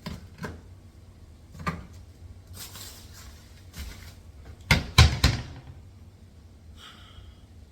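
Scattered knocks and clicks of household handling, with a cluster of three louder bangs about five seconds in.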